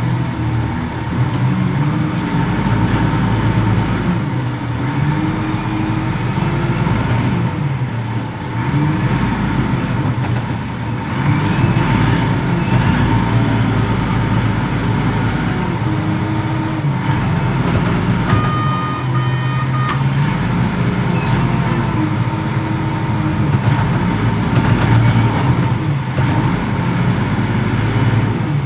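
Reach stacker's diesel engine running under load, its pitch rising and falling repeatedly as the machine works containers. A short electronic beep sounds about two-thirds of the way in.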